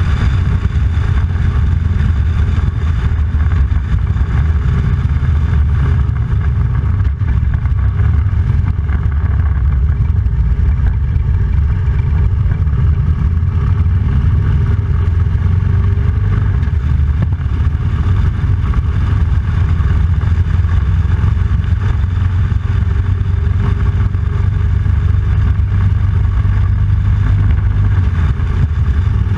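Motorcycle engine running steadily while riding, a loud, even low rumble throughout.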